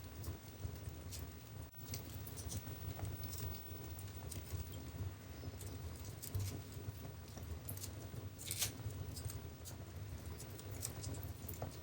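Wood fire burning in a fireplace: a steady low rumble of the flames with irregular crackles and small pops, one louder pop a little past the middle.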